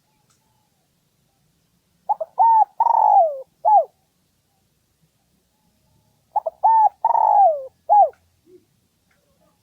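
Spotted dove cooing two song phrases. Each phrase is a few short coos, one long coo that falls in pitch, and a last short coo. It is a decoy call meant to lure rival male doves in to fight.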